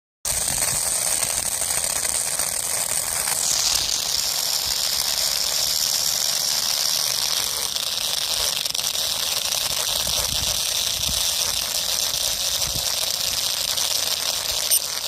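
Small electric motor running steadily with a high whine and hiss. Its pitch drops about three and a half seconds in.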